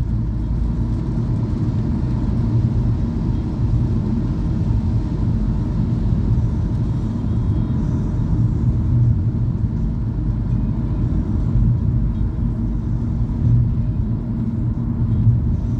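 Steady low rumble of a car driving, heard from inside the cabin: engine and tyre road noise, unchanging throughout.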